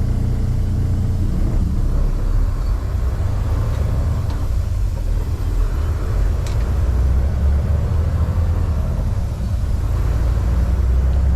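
Semi truck running down the road, heard from inside the cab: a steady low rumble of engine and road noise.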